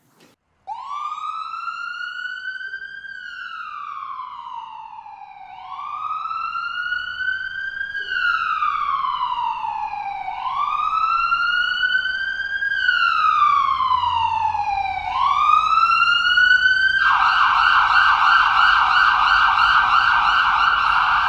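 Fire truck siren sounding loud: a slow rising and falling wail, four cycles, then switching about 17 seconds in to a rapid yelp.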